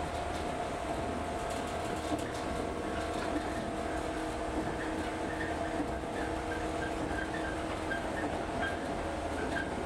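Local electric train running along the line, heard from inside the passenger car: a steady rumble of the car and wheels with a constant hum.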